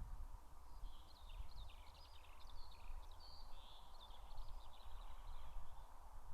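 Eurasian skylark singing a rapid, continuous warble of high twittering notes, starting about a second in and fading near the end, over a steady low rumble of wind noise on the microphone.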